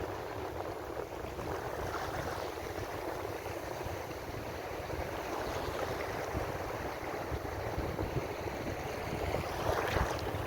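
Ocean surf: a steady wash of waves, with one louder wave breaking and washing in near the end.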